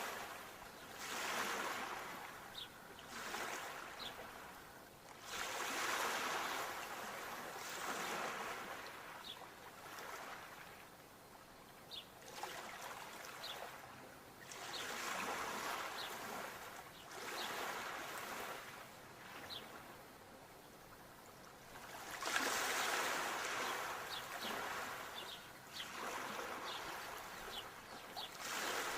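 Sea waves washing onto the shore, the surf swelling and ebbing every few seconds, with the biggest surge about three-quarters of the way through. Faint short ticks sit over the wash.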